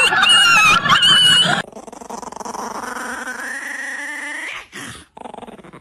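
A dog giving a run of short, loud, high-pitched yelping calls, then, about a second and a half in, a quieter, longer sound that rises in pitch.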